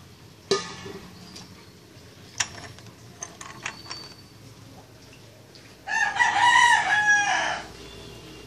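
A rooster crows once, starting about six seconds in and lasting nearly two seconds. Before it there are a few short, sharp clicks.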